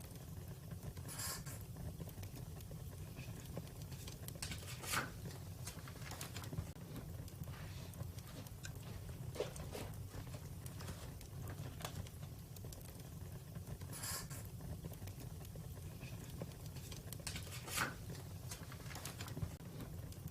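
Wood fire crackling: scattered sharp snaps and pops over a steady low background, with the loudest pops about five seconds in and near the end.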